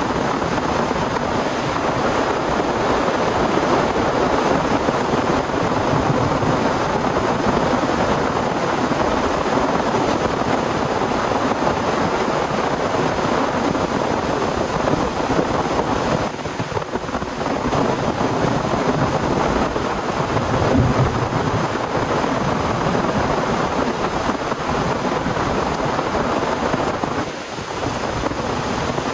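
Heavy rain pouring down in a windstorm: a dense, steady rush that eases briefly twice, about halfway through and near the end.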